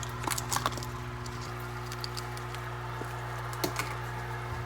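A few light clicks and rustles of handling, clustered near the start and once more near the end, over a steady low electrical hum.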